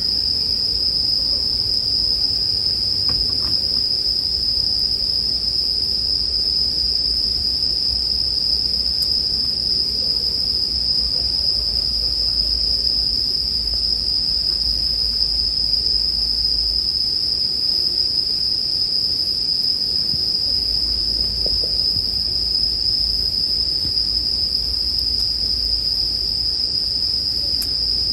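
Japanese bell crickets (suzumushi) singing as a steady, continuous high-pitched chorus, with a faint low campfire crackle underneath.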